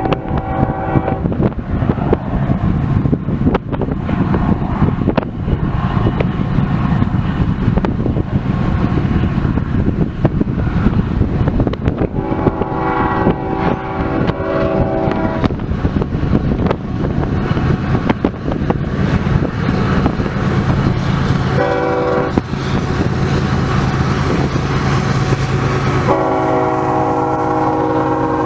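Diesel freight locomotive horn blowing the grade-crossing pattern: long, long, short, then a long blast still held at the end, with the locomotive's diesel engine droning steadily underneath. Strong wind buffets the microphone.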